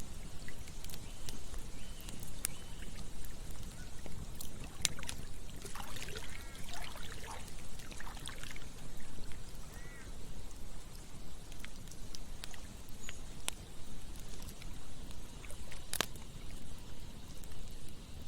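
Campfire crackling with scattered sharp pops, one louder pop late on, over the steady rush of a flowing stream. A few brief animal calls come through about a third of the way in and again a little after.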